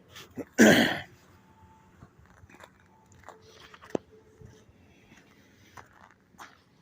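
A few scattered crunches of boots on cold, packed snow as he steps to a new spot, with one sharper tick about four seconds in.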